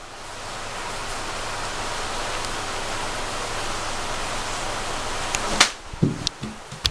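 Heavy typhoon rain, a steady hiss. About five and a half seconds in, a sharp click cuts it off, followed by a few dull knocks.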